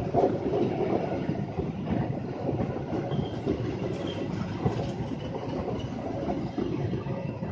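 Train rolling past on the rails: a steady rumble with a dense, rapid clatter of wheels over the track, and a faint high ringing in the middle.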